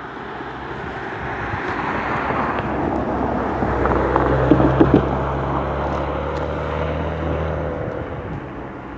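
GO Transit diesel-hauled commuter train passing: a rushing sound that swells and fades, with the locomotive's engine drone in the middle and a few wheel clacks at the loudest point, about five seconds in.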